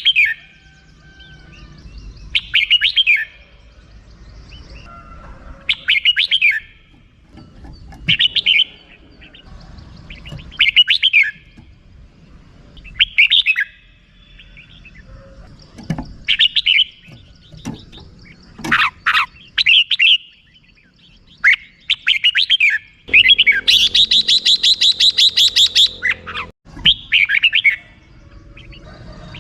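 Red-whiskered bulbul calling in short, bright chirping phrases about every two to three seconds. Near the end it gives a fast rattling chatter for about three seconds, the 'rik' call that bulbul keepers listen for.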